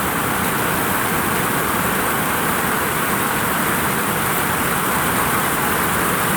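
Heavy rain falling on a vinyl roof, an even, unbroken rush of noise.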